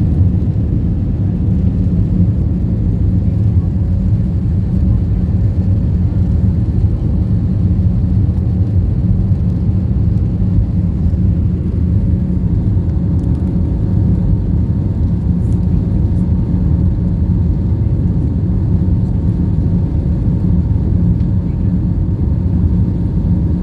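Steady, loud low rumble of a jet airliner's engines and airflow heard from inside the passenger cabin during takeoff.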